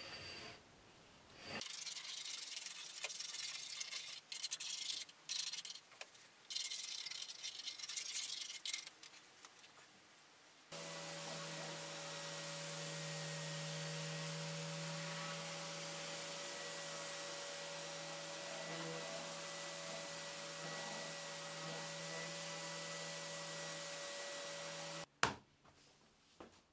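Random orbital sander with a dust-extraction hose running steadily on a beech workbench top, a constant hum that starts about ten seconds in and cuts off abruptly near the end. Before it starts there are several seconds of intermittent scraping strokes.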